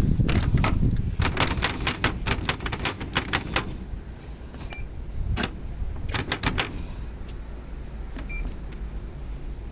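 A fast, irregular run of sharp clicks and rattles, then a shorter cluster about five and a half seconds in, over a low rumble that fades after the first second or two and a faint steady high-pitched whine.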